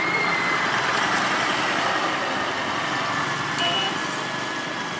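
Truck and road traffic noise, with a thin high-pitched squeal that starts at once, sags slightly in pitch and fades out about four seconds in.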